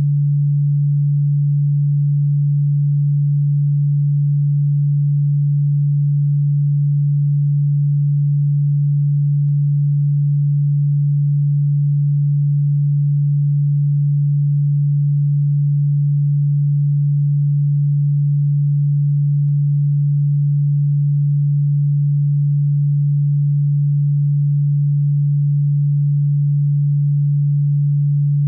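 Continuous electronic sine tone, low in pitch, held at one steady pitch and level without any change.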